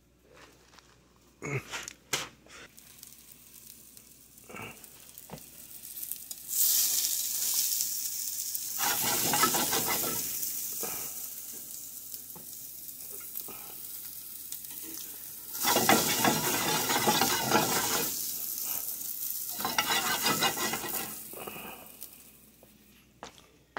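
Meatballs frying in a skillet, sizzling. The hiss comes up about a quarter of the way in, swells loud twice, and dies away near the end, after a few light knocks at the start.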